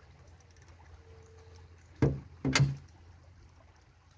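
Two loud knocks about half a second apart, the second one longer, over a faint steady low hum.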